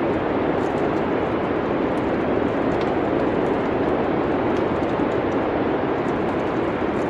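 Steady rushing wind of a snowy night, even in level, with faint scattered crackles of a wood fire.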